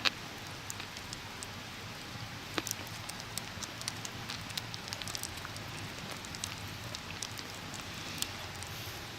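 Wood campfire crackling: a steady hiss with many scattered, irregular sharp pops.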